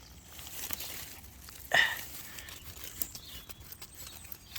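Ivy leaves rustling and crackling as they are pushed aside by hand, with many small clicks and one louder, sharper crackle about two seconds in.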